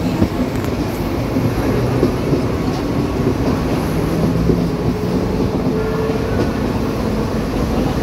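Mumbai suburban electric local train running steadily at speed, heard from inside the moving coach: a continuous rumble of wheels on the rails.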